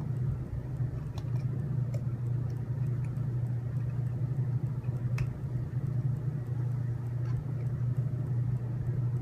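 Steady low hum, with a few faint clicks as small plastic 3-pin servo connectors are handled and pushed in.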